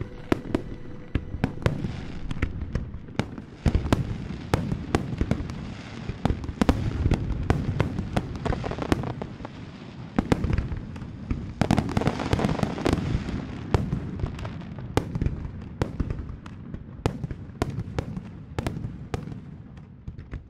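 Fireworks display: rapid, overlapping shell bursts and crackles over a low booming rumble, dying away near the end.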